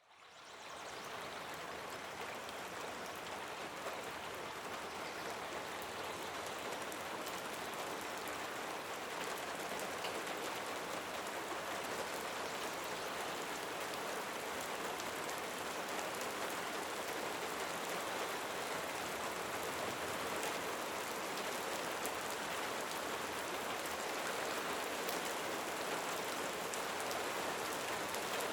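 Steady rain falling, a dense even hiss with scattered drop ticks, fading in over the first second.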